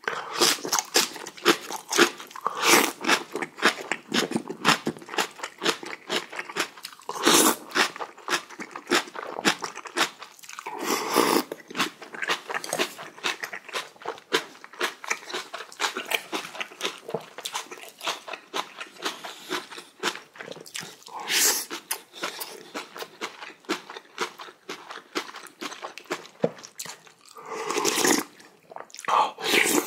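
A person chewing and crunching a mouthful of kimchi with rice and soup: a steady run of small, wet crunching bites, with louder bites several times.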